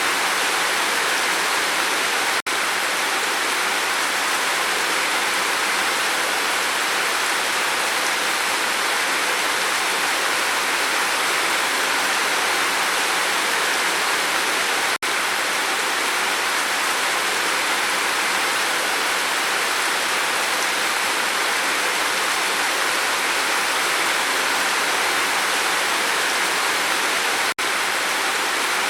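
Steady, dense rain falling on a roof, an even hiss with no thunder. It dips out for an instant three times, about every twelve seconds, where the recording loops.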